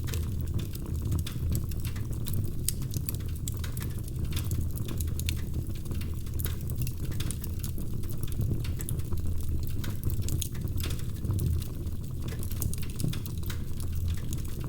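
Wood fire crackling in a fireplace: many irregular small pops and snaps over a steady low rumble of the flames.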